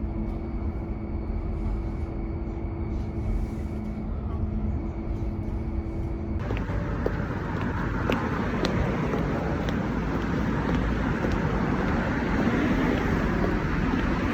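Vehicle noise: a steady low hum with two held tones, then, after an abrupt change about six seconds in, a louder rushing noise like passing traffic with a few sharp clicks.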